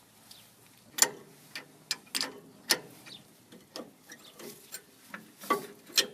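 Sharp metal clicks and clinks of a hand wrench working loose the brake caliper bolts, about a dozen at uneven intervals.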